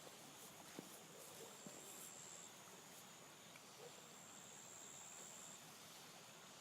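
Near silence: faint outdoor quiet with a thin, high steady trill that comes and goes, like an insect calling, and a few soft clicks.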